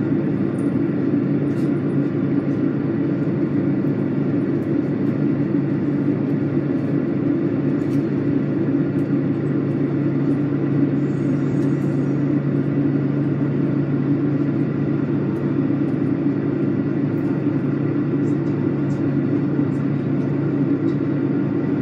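Steady low rumble of a vehicle running at an even speed.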